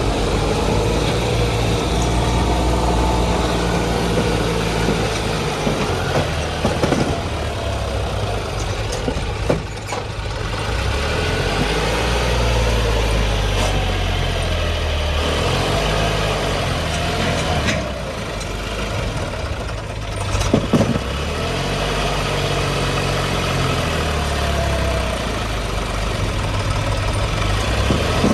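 John Deere tractor's diesel engine running, its pitch rising and falling now and then, with a few sharp knocks.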